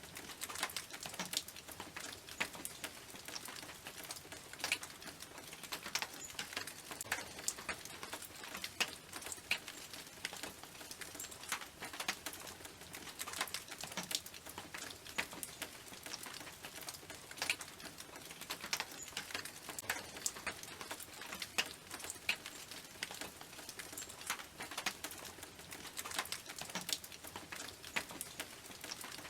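Rain falling on a tin roof: a dense, irregular patter of drops striking the metal sheet.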